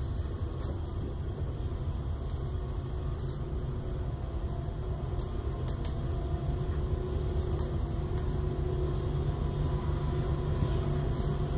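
A train passing nearby: a steady low rumble with a few held tones, growing louder toward the end. A few light clicks from small parts being handled.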